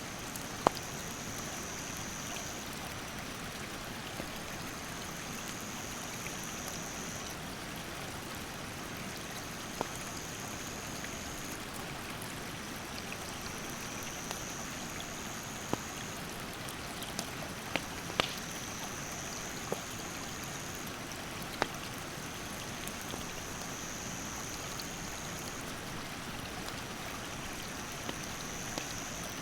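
Steady rush of stream water with a wood campfire crackling over it: irregular sharp pops, the loudest one near the start. A high, thin insect buzz repeats in phrases of about two seconds with short pauses between.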